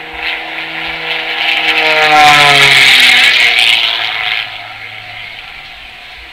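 Propeller-driven aerobatic plane's piston engine passing by at speed. The engine note grows louder, drops in pitch as the plane goes past about two to three seconds in, then fades away.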